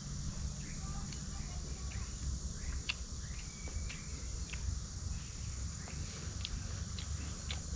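Forest ambience: insects chirring steadily under a low rumble, with scattered short clicks and a few brief faint chirps.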